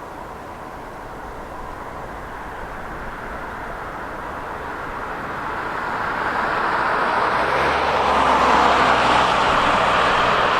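Boeing 737-800's CFM56-7B jet engines, a rising roar that grows much louder as the airliner comes closer on its approach, peaking about eight seconds in.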